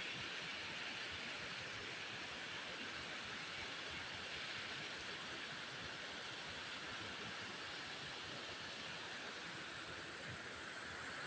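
Waterfall: falling water making a steady, unbroken hiss.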